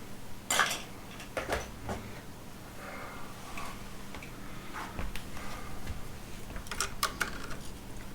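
Electrical wire being trimmed and stripped with hand wire cutters: a series of sharp snips and clicks, with small handling noises of the wire and switch between them.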